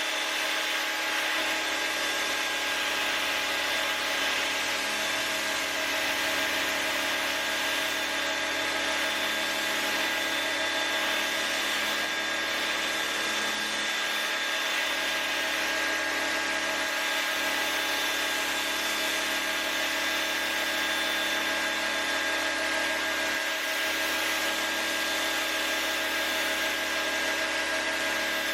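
Stanley electric pressure washer running steadily: the electric motor and pump hum with the even hiss of the high-pressure water spray, unbroken.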